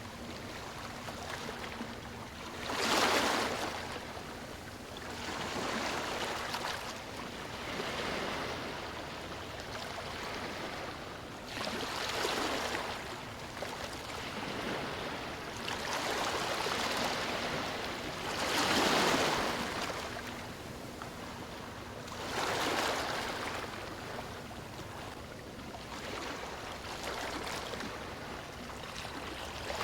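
Sea waves breaking and washing up a beach: a continuous rush of surf that swells louder every few seconds as each wave comes in, then falls back.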